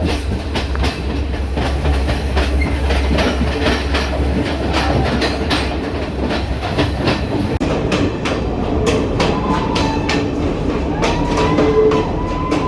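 Passenger train running on the rails: a steady low rumble with irregular clicking as the wheels pass over rail joints. A thin squeal comes in over the last few seconds.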